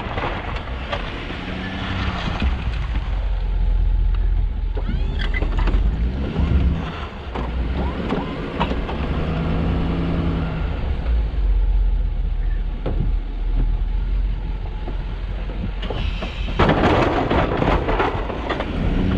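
Plow truck engine running while driving, a steady deep rumble whose pitch shifts now and then, with a louder rushing noise for the last few seconds.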